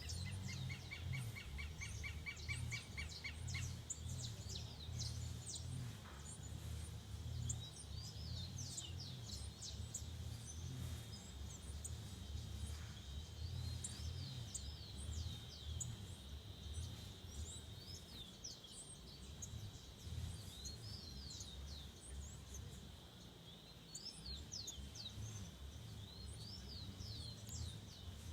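Several forest birds calling and singing: many short, high, falling whistles throughout, with a rapid trill of repeated notes in the first three seconds or so. A steady high hum and a low rumble lie underneath.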